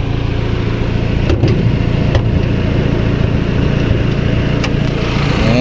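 1994 Daihatsu Classy's engine idling steadily and smoothly, with a few light clicks over it.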